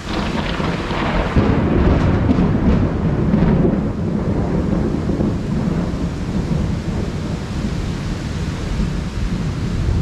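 Thunder rumbling over a heavy downpour: the roll breaks in at the start, is loudest about two to four seconds in, then rumbles on more weakly under the steady rain.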